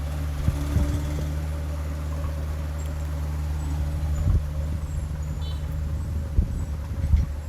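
Heavy diesel engine of earthmoving machinery running steadily with a low hum, with several dull knocks and thumps scattered through.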